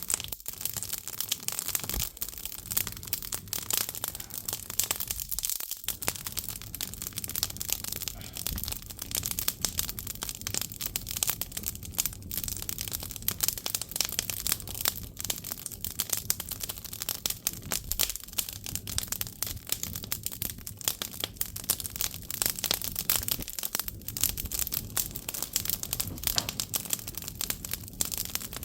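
Firewood burning in an agungi, the wood-fired firebox of a Korean ondol furnace, crackling densely and without pause.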